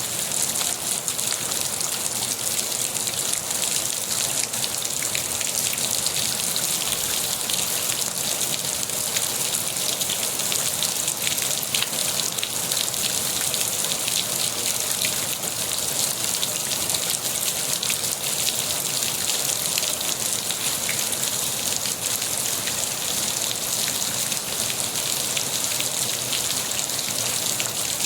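Steady rain falling, a constant hiss of many drops hitting a surface, with fine individual drop ticks.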